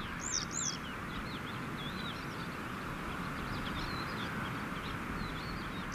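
Bird calls over a steady hiss: many small, high chirps scattered throughout, and a pair of high, arching calls about half a second apart near the start.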